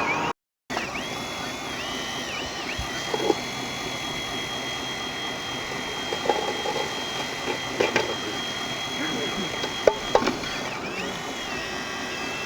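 High steady whine of a small electric motor on a radio-controlled model machine, dipping and rising in pitch several times, with a few sharp knocks scattered through.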